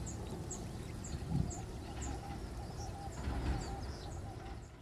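A bird chirping: a short, high, thin note repeated about twice a second, over a low background rumble.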